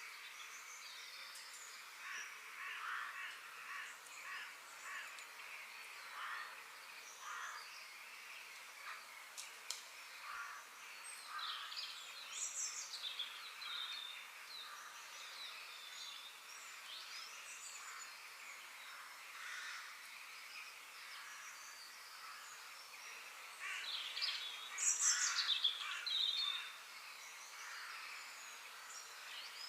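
Outdoor birdsong: many birds calling and chirping over a faint steady hiss, with a louder burst of high twittering calls about two-thirds of the way through.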